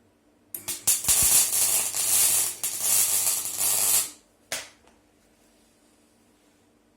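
Loud spraying hiss lasting about three and a half seconds, then a second short burst about half a second later.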